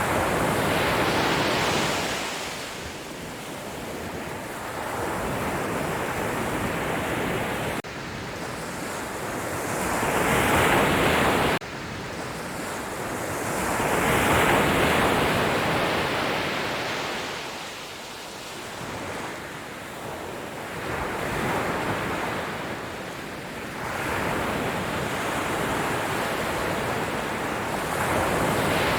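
Sea waves breaking on the shore, the wash swelling and falling back every few seconds, with a sudden drop in level about twelve seconds in.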